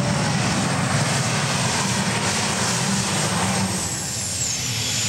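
Multi-engine modified pulling tractor running at full power, a loud steady engine noise that eases slightly near the end.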